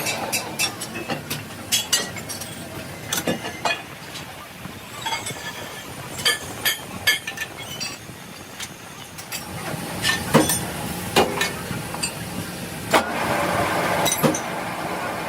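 Irregular metal clanks and knocks from steel being worked, with a machine running underneath that grows louder about ten seconds in.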